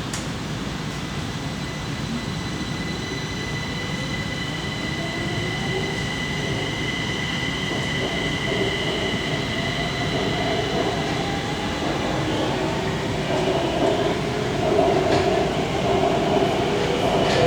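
Kaohsiung MRT Red Line metro train heard from inside the passenger car, gathering speed: steady high electric whines sit over a lower motor whine that slowly rises in pitch, while the running noise grows louder.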